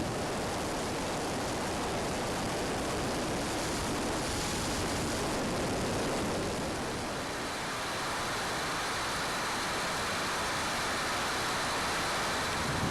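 Steady, even rushing hiss of the model jet's twin JetCat P120 gas turbines heard at a distance, with a faint high whine. It dips slightly about halfway through.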